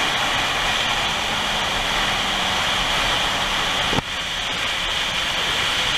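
Steady rushing wind and road noise from a moving Yamaha MT-09 motorcycle, with a faint engine note from its three-cylinder engine slowly falling in pitch and fading out. The sound changes abruptly about four seconds in, then the rushing carries on slightly quieter.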